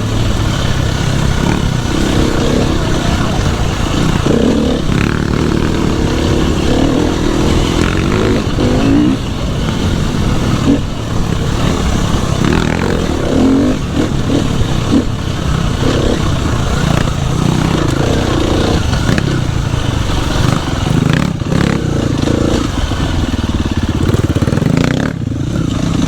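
Dirt bike engine running hard on a trail ride, its revs rising and falling continuously as the rider works the throttle, with a few short knocks from the bike over rough ground.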